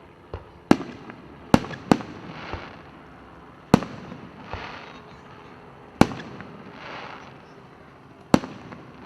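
Fireworks display: aerial shells bursting with sharp bangs every second or two, about six loud ones in all. Several bangs are followed by a crackling hiss as the bursts spread.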